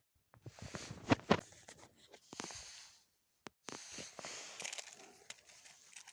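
Matches being struck to light a fire: two bouts of scratchy rasping and crackling, with two sharp snaps about a second in.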